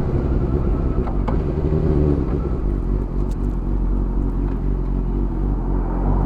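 Suzuki GSX-R motorcycle engine running at steady, fairly low revs while riding, with a rush of noise over it.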